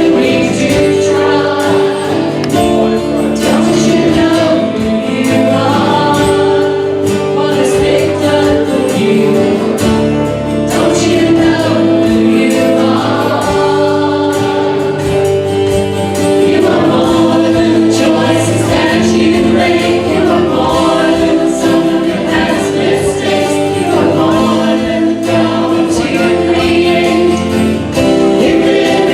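A congregation or choir singing a hymn with instrumental accompaniment.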